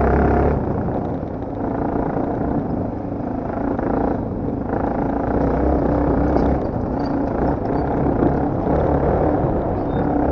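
Motocross bike engine running hard under changing throttle, easing off briefly about a second in and again around the middle.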